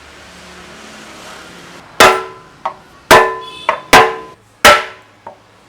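Hammer striking metal: after a short quiet stretch, four loud ringing blows about 0.8 s apart, with lighter taps between.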